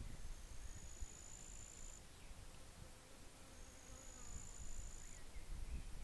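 An insect's high, thin trill, held for about two seconds and repeated once after a pause of about a second and a half, over a low rumble of wind with a few faint bird chirps.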